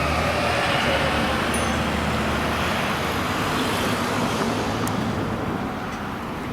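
Fire apparatus on an emergency run, its diesel engine and road noise rumbling steadily as it drives past, easing off near the end. A faint high tone slides down in pitch over the first few seconds.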